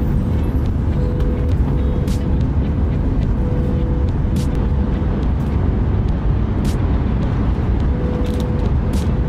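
Steady low rumble of a Shinkansen bullet train heard from inside the passenger cabin while running at speed. A few brief clicks sound over it.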